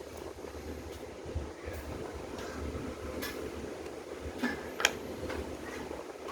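A few light, sharp clicks and taps, the sharpest about five seconds in, over a steady fan-like hum.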